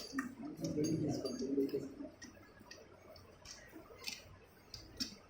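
Scattered light metallic clicks and ticks of tools and motorcycle engine parts being handled on the bench, with a faint murmur of voices in the first couple of seconds.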